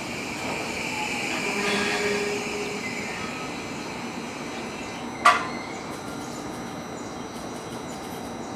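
JR Kyushu 821 series electric train creeping slowly along the platform, with faint pitched whine and squeal in the first few seconds. A single sharp metallic clank about five seconds in is the loudest sound.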